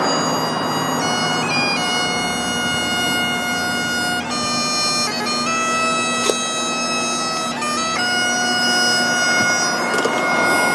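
Bagpipe music: a melody of held notes, changing pitch every second or two, over a steady drone.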